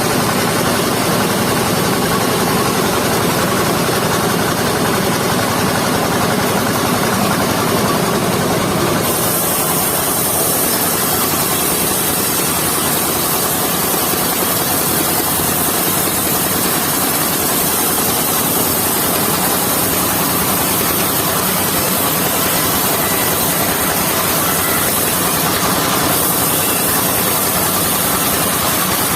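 Mobile circular sawmill running steadily, its engine and saw making a continuous loud noise. About nine seconds in, the sound shifts to a brighter, higher hiss that softens a little near the end.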